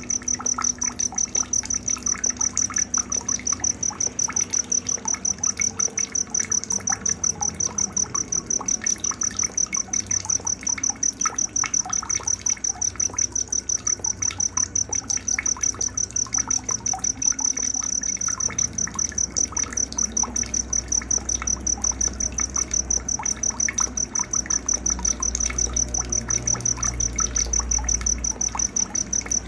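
Night-time nature soundscape: an insect, such as a cricket, chirps in a steady, even pulsing rhythm at a high pitch throughout. Scattered bird chirps and calls sound over it, with faint trickling water beneath.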